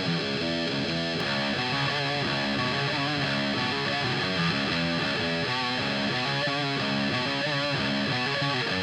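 Electric guitar played through a mini guitar amp into a 4x12 cabinet with Celestion V30 speakers, a steady run of quickly changing notes, some with wavering vibrato, in a rock and metal style.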